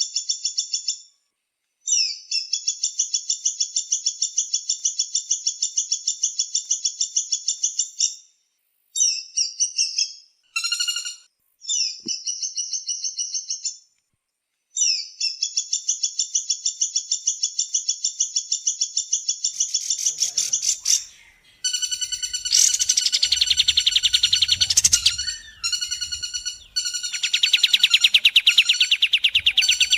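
Bird-training recording of kapas tembak and pelatuk bawang (woodpecker) calls: long runs of fast, evenly repeated high chattering notes, broken by short gaps. About two-thirds of the way in, several calls start to overlap, with a low rumble beneath.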